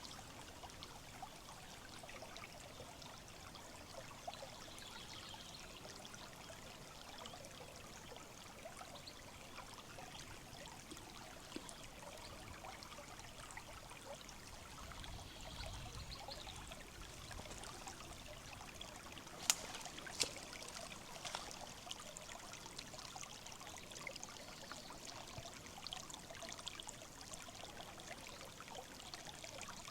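Shallow river flowing over stones, a faint steady trickling and burbling. Two sharp clicks come about two-thirds of the way through.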